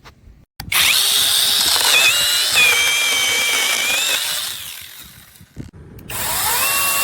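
Cordless brushless mini chainsaw running under the trigger. It starts about a second in with a high whine for about three seconds, then winds down. Near the end it is triggered again, its whine rising and then holding steady.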